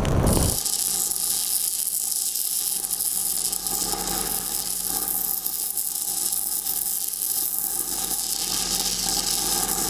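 Stick-welding arc on a 5/32-inch E6010 electrode, running the downhill root pass on a steel pipe joint. The arc is struck right at the start, then gives a steady, even crackling hiss.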